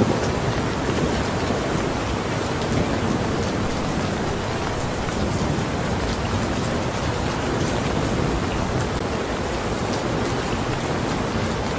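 Steady rain falling, an even hiss with faint sharp drop ticks scattered through it.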